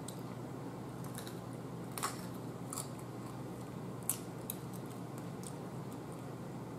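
Crisp bites and chewing of a raw green hot pepper close to the microphone: a handful of short sharp crunches roughly a second apart, the loudest about two seconds and about four seconds in.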